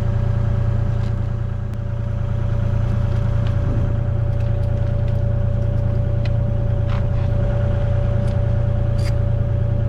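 Excavator's diesel engine idling steadily, with a constant low hum and a steady whine over it, and a couple of light clicks near the end.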